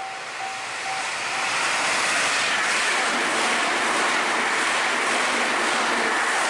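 Meitetsu Panorama Super express train passing close by at speed: a rushing noise that swells over the first couple of seconds and then holds steady. A repeated ding, about two a second, is drowned out by the train in the first second or so.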